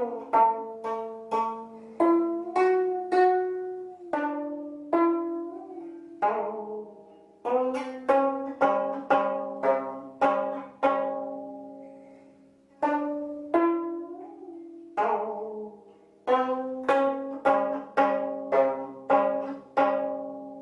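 Gayageum, the twelve-string Korean zither, played solo: a slow melody of single plucked notes that ring and fade, some bent in pitch after the pluck, with a couple of short pauses.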